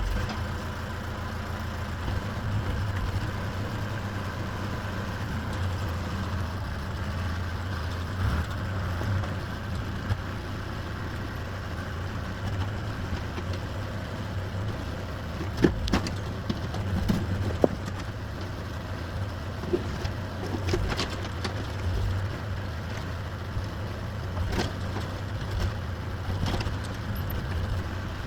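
Excavator engine running steadily, with a few sharp knocks around the middle.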